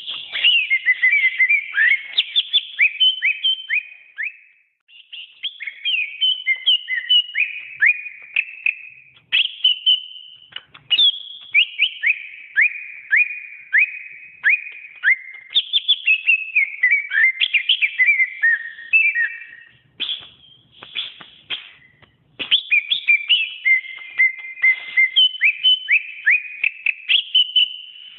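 Greater green leafbird (cucak ijo) singing a long run of rapid, loud whistled notes, many sweeping sharply downward, delivered in phrases broken by a few short pauses.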